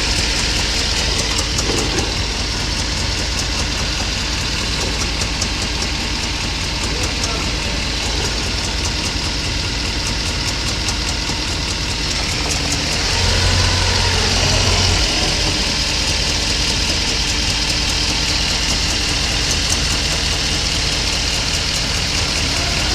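Mercedes-Benz W124 500E's V8 idling steadily, with a fast fine ticking over the running and a brief rise in level about thirteen seconds in. The abnormal noise comes from the front of the engine; the owner judges it is not the cracked muffler and suspects it may be inside the engine.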